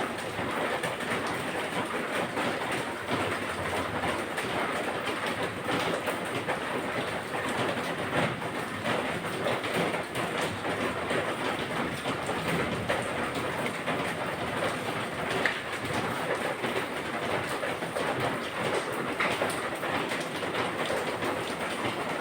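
Heavy rain falling, a dense steady patter with many small clicks that runs on without a break.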